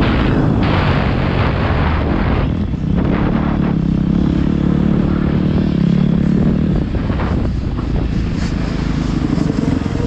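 Motocross dirt bike engine running hard as it is ridden, its pitch rising and falling with the throttle and dropping briefly twice.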